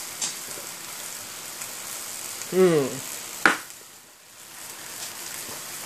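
Seafood stir-fry sizzling steadily in a stainless steel wok. About two and a half seconds in a man gives a short falling vocal sound, followed by a sharp click, and the sizzle dips briefly about four seconds in.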